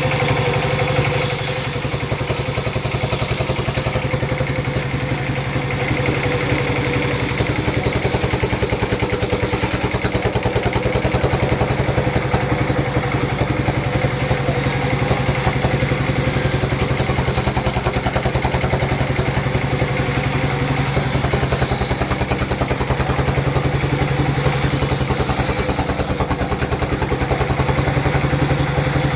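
Sawmill machinery running steadily: a low hum with a fast, even pulse, and a high hiss that swells and fades several times.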